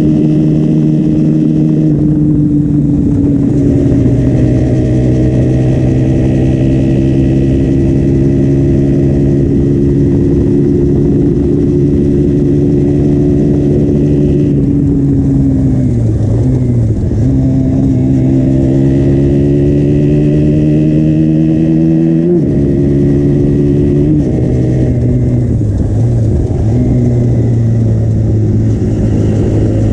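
Stock-exhaust KTM Duke 125 (2015) single-cylinder four-stroke engine running, its pitch holding steady for long stretches. Around the middle it dips and climbs back, and a few sudden pitch changes follow later on.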